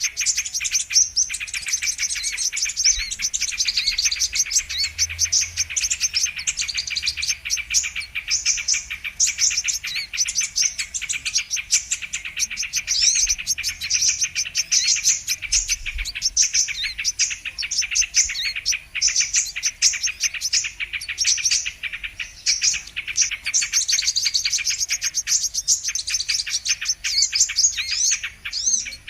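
Kolibri kelapa (sunbird) song: a continuous, rapid, high-pitched twittering of chirps, played as a bird-trapping lure recording.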